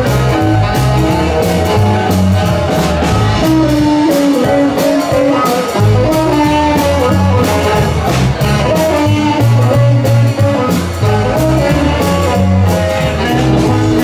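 Live band playing an instrumental swing passage: guitar over a stepping bass line and steady drum and cymbal strokes.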